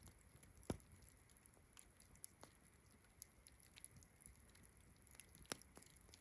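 Campfire crackling faintly: scattered small snaps and pops, with two louder pops just under a second in and near the end, over a faint steady high hiss of crickets.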